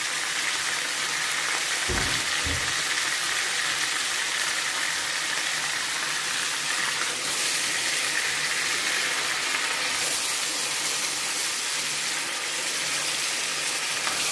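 Boneless chicken cubes sizzling steadily in hot oil in a non-stick frying pan as they are stirred. Two short, low knocks come about two seconds in.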